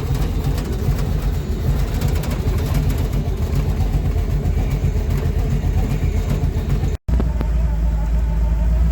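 A car's engine and road noise while driving, a steady low drone with rough rumble. About seven seconds in the sound cuts out for an instant, then comes back as a smoother, steadier low drone.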